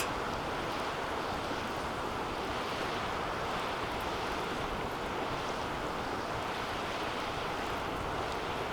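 Wood fire burning in a DOD Mecha Moe Fire 2 metal fire pit: a steady rushing roar of flames with a few faint crackles.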